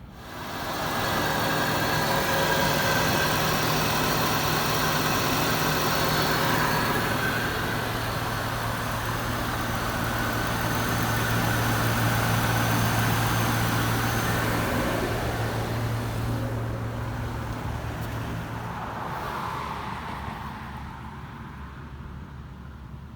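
A motor vehicle running close by: a steady engine hum that comes up quickly, holds, then fades away over the last several seconds.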